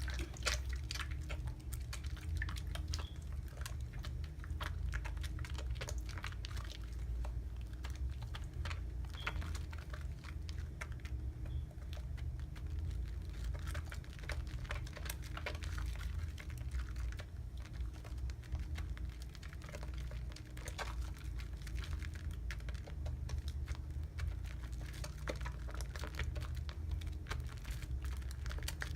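Soap lather being worked up by hand: a dense, continuous crackle of small wet clicks and squishes from the foam and bubbles, over a low steady hum.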